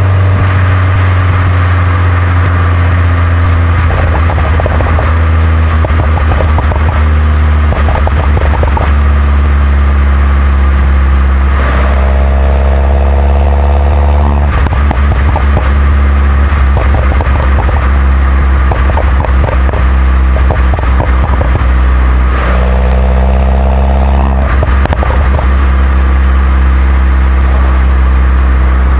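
The 2011 Mini John Cooper Works' turbocharged 1.6-litre four-cylinder engine and stock exhaust, droning steadily while driving over a constant hiss of road noise. The engine note climbs in pitch twice as the car accelerates, each time for about two seconds: about twelve seconds in and again near twenty-two seconds.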